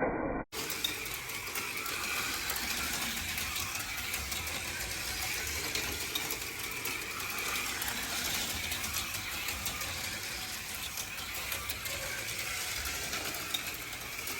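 HO scale slot cars running on a plastic track: a steady whir of their small electric motors and gears, with fine rattling of the cars in the slot.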